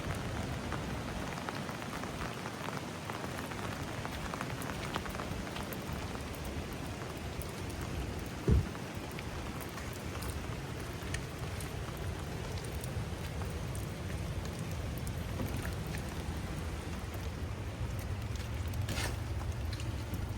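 Steady rain falling, with many small drop ticks scattered through it. A single short low thud about eight seconds in is the loudest moment.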